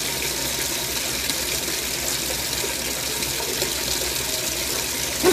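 Washing machine filling with water: a steady rush of water pouring into the drum.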